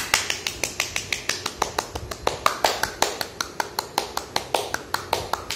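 Hand clapping with all five fingers striking the palm: rapid, sharp claps at several a second, the loudest stage of the 'make it rain' finger-tapping game, where the claps imitate heavy rain.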